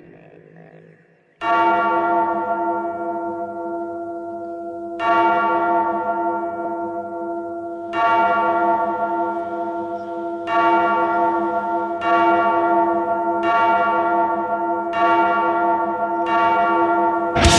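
A large church bell tolling slowly, eight strokes in all, each ringing on into the next. The strokes come closer together as it goes, from about three and a half seconds apart to just over one.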